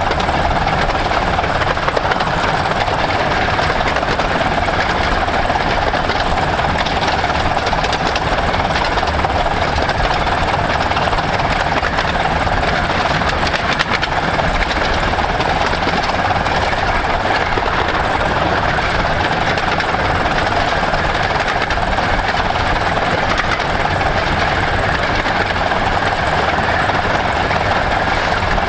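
Miniature-gauge railway train hauled by steam locomotive No.5 Hercules, running along the line: a loud, steady running rumble and rattle with no breaks.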